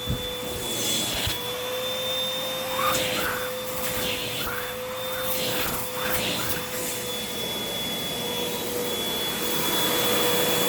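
Hoover WindTunnel 2 Rewind upright vacuum running with its hose and upholstery tool on sofa cushions: a steady motor whine, with the suction hiss changing irregularly as the tool is worked over the fabric. A thump comes right at the start, and the sound grows louder and steadier near the end.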